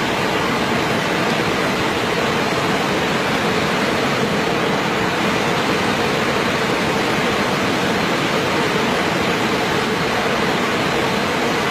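Waterfall: the steady rushing of falling water, even and unbroken.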